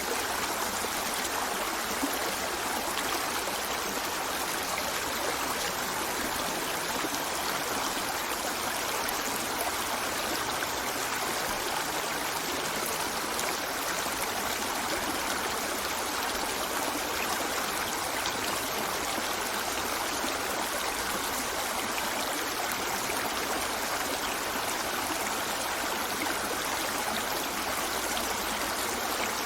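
River water flowing and rushing steadily over rocks, a constant even wash of stream noise with light trickling.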